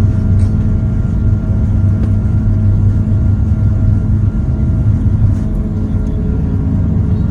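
Airbus A330 heard from inside the passenger cabin: a steady, loud engine and airframe drone with a heavy low rumble and a few faint steady tones above it.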